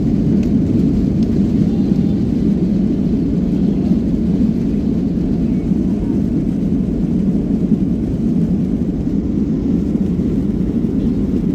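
Steady low roar of an airliner's engines and airflow heard inside the passenger cabin, even and unchanging throughout.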